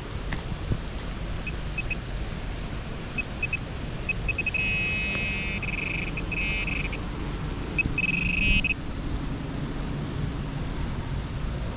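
Metal detector beeping a high-pitched target signal: a few short spaced beeps, then two longer held tones, the first about halfway through and the second shortly after, over a low rumble of wind on the microphone.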